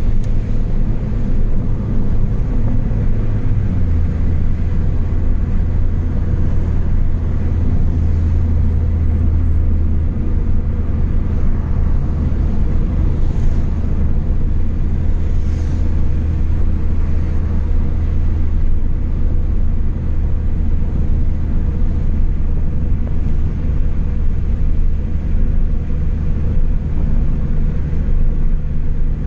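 Chevrolet Astra 2.0 four-cylinder engine with a straight-through exhaust, droning steadily while the car cruises. The drone drops slightly in pitch a few seconds in, then holds even.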